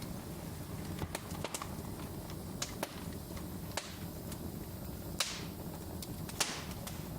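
Wood fire crackling: scattered sharp pops and snaps over a low steady rumble of flames, the two loudest pops about five and six seconds in, each followed by a brief hiss.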